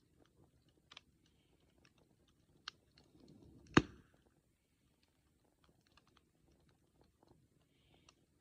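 Wood bonfire crackling with faint scattered pops, and one loud sharp pop a little under four seconds in, with a short low rush just before it.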